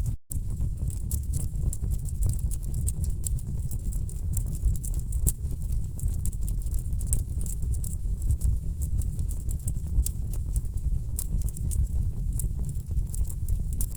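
Wood fire burning in a fireplace: a steady low rumble of flames with dense, irregular crackles and pops from the logs. The sound drops out briefly just after the start.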